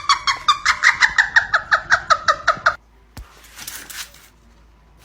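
An animal's rapid run of short, high chirping calls, about seven a second, that stops abruptly about three seconds in.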